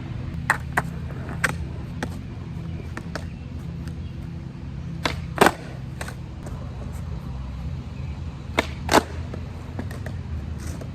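Skateboard rolling on concrete with a steady wheel rumble, broken by sharp clacks of the board. Twice a pair of clacks comes about a third of a second apart, the louder pair about halfway through.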